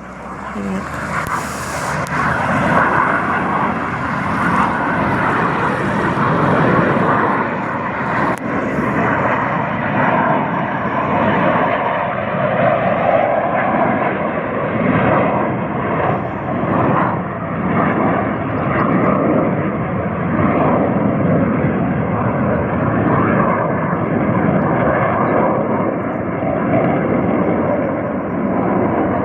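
A pair of BAE Hawk jet trainers taking off in formation, their single turbofan engines each giving a loud, continuous jet noise. The noise swells over the first few seconds, then holds, and its hiss softens after about eight seconds as the jets climb away.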